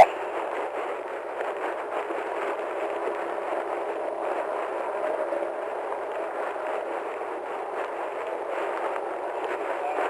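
Steady rushing hiss through a police radio's narrow band, an open channel carrying no speech.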